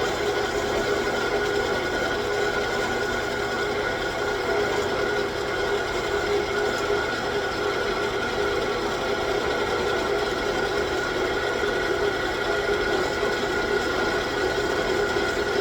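9x20 gear-head engine lathe running steadily with a constant gear whine during a light skim pass on the workpiece.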